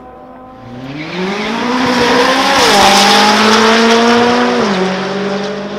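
Supercars accelerating hard down a drag strip, the engine note rising in pitch as they pull and dropping at two upshifts, about two and a half and four and a half seconds in. It is loudest in the middle as the cars pass close by.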